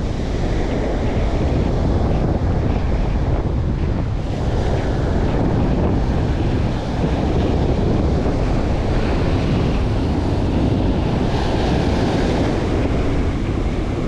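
Strong wind buffeting the microphone in a steady low rumble, with ocean surf washing on the beach underneath.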